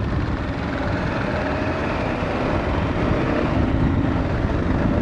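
Dual-sport motorcycle running under way on a fresh gravel road, the engine note mixed with a steady rush of wind and tyre noise.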